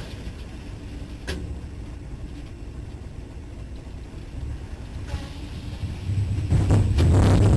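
A vehicle's low rumble with a single sharp knock about a second in, swelling about six seconds in to a much louder rumble with crackling noise.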